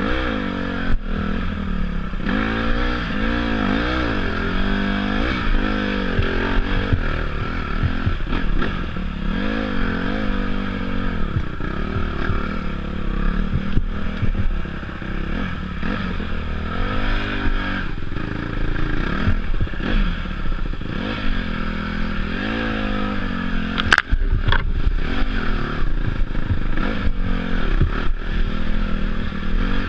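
Dirt bike engine ridden off-road, its revs rising and falling again and again as the throttle is worked, with clattering from the bike over rough ground. A sharp knock near the end.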